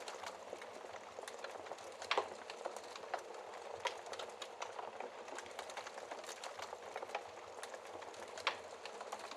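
Wood fire crackling in a fireplace: a steady hiss of small, irregular crackles with a couple of louder sharp pops, about two seconds in and again near the end.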